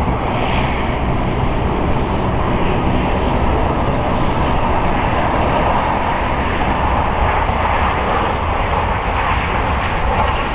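Twin GEnx-1B turbofan engines of a landing Boeing 787-9 Dreamliner: a steady, loud rushing jet noise that grows a little stronger about halfway through.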